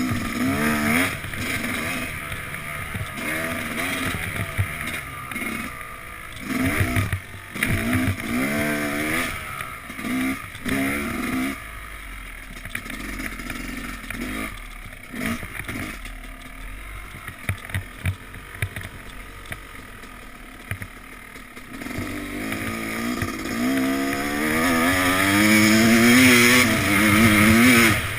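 Yamaha YZ250X's 250 cc single-cylinder two-stroke engine being ridden hard, its pitch rising and falling over and over with the throttle and gear changes. Near the end it climbs into a long, loud pull.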